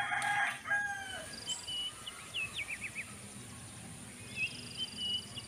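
Small birds chirping and singing: short high whistled notes and quick falling trills in two spells, one about two seconds in and one near the end.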